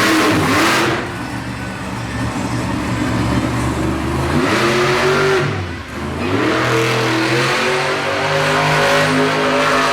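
Bigfoot monster truck's engine revving hard, the pitch climbing about four seconds in, dropping off briefly near six seconds, then rising again and holding high.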